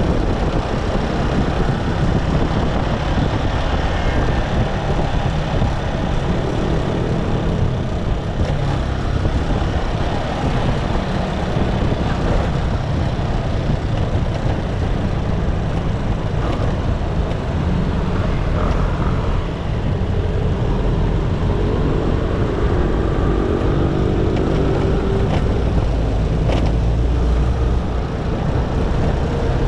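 Motorcycle engine running while riding, with steady road and wind noise. A faint tone from another engine or vehicle rises out of the noise about two-thirds of the way in.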